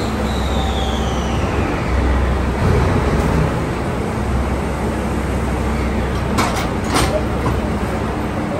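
Diesel railcars of the JR Shikoku 2700 series running steadily as a second car closes up on car 2765 for coupling. A high tone slides down in the first second or two. Near the end come a few sharp metallic clanks as the coupling ends meet.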